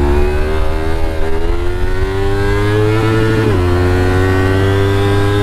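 Motorcycle engine pulling under throttle, its pitch climbing slowly, dropping sharply once about three and a half seconds in, then climbing again.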